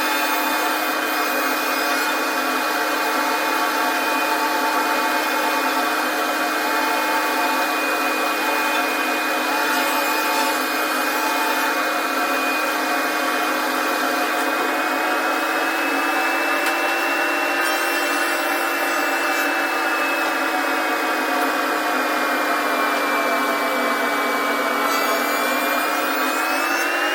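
SawStop table saw spinning a molding cutter head through wood, a steady loud whine whose pitch shifts slowly with the load and climbs near the end.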